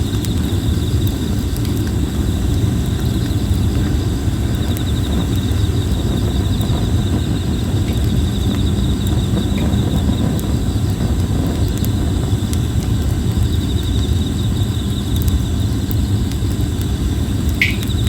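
Plum-wood campfire burning with scattered small crackles over a steady low rumble, while insects trill continuously at a high pitch.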